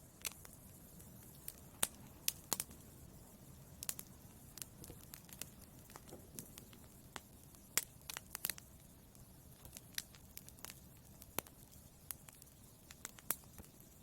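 Wood fire in a fireplace crackling: sharp, irregular pops and snaps, a few much louder than the rest, over a low steady rush of burning.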